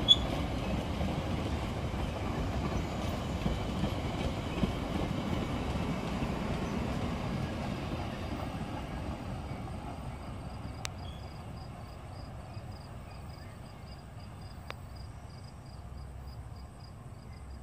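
Metra bilevel commuter train cars rolling past with a steady rumble of wheels on rail, fading away after the last car goes by about halfway through.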